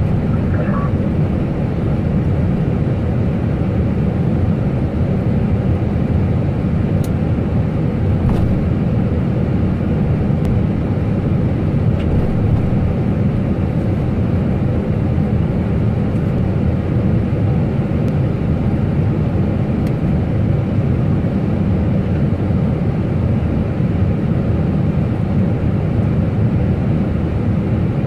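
Steady, unbroken noise of an airliner's engines and rushing air heard inside the cockpit, heaviest in the low range, with a few faint clicks.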